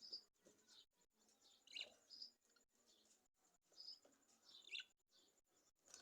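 Lovebirds chirping faintly: short, high chirps that come irregularly, some in quick pairs.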